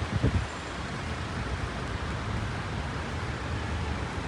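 Steady hiss of rain falling on a city street, with a low rumble underneath and one brief low sound just after the start.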